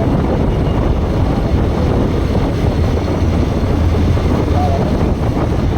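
Steady wind rush on the microphone of a moving motorcycle, a Bajaj Pulsar NS160, with the engine running underneath as a steady low hum.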